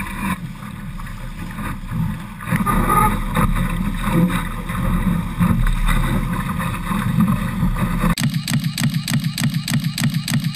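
Water rushing and wind buffeting on a GoPro's microphone aboard a Laser dinghy under sail. About eight seconds in, this cuts abruptly to a steady pulsing sound of about three beats a second.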